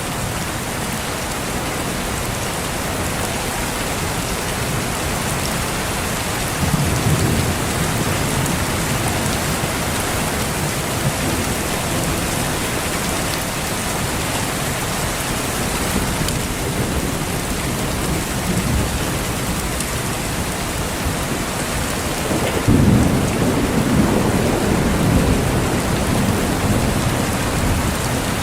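Steady heavy rain hissing, with low rolls of thunder: a short rumble about seven seconds in and a longer, louder one starting near the end.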